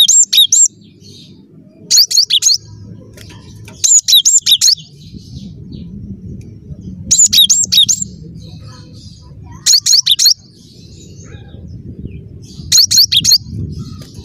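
Cinereous tit (gelatik batu) singing loudly: short bursts of a few rapid, sharply hooked high whistled notes, repeated about every two to three seconds.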